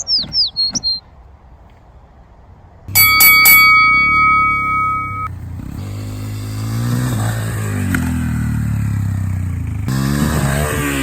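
Dirt bike engine starting about three seconds in with a clatter and a brief ringing tone, then running and revving up and down, rising again near the end.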